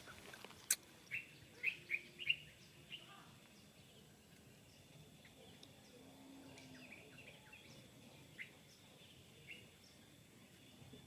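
Short, high chirps from small animals, several in quick succession in the first three seconds and a few scattered ones later, over a faint outdoor background. A single sharp click comes near the start.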